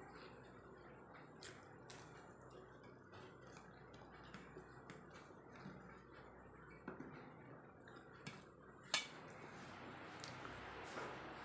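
Quiet eating sounds: chewing and small scattered clicks of a plate being handled, with one sharper clink about nine seconds in.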